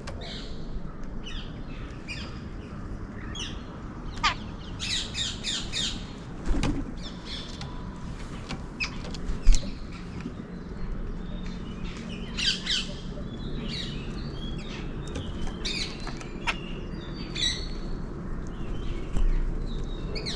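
Wild birds calling outdoors: many short, high chirps and squawks in quick clusters over a steady low background, with a few sharp knocks, one louder than the rest about halfway through.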